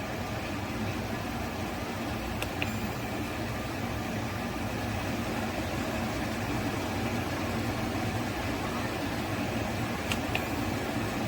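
SereneLife SLPAC8 portable air conditioner running with a steady hum and fan noise. Two short clicks sound, one about two and a half seconds in and one near the end.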